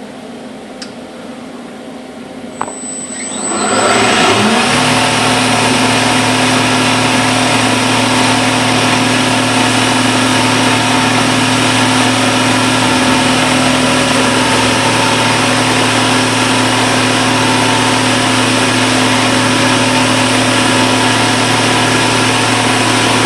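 CNC milling machine spindle spinning up about four seconds in, then running at a steady speed, loud enough to drown out speech.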